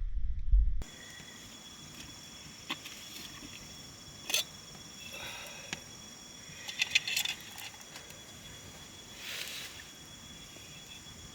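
Forest insects, crickets or cicadas, holding a steady high-pitched drone, with a few sharp clicks and snaps scattered through it. A loud low rumble cuts off abruptly just under a second in.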